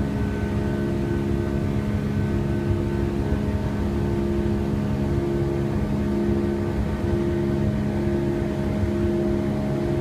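Steady cabin drone of a Boeing 757 airliner in operation, heard from inside the cabin: engine hum and airflow rushing, with a few constant low hums over the noise.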